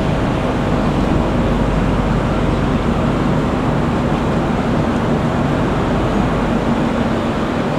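Steady noise of a passenger train at a station platform: an even rumble with a faint low hum held throughout.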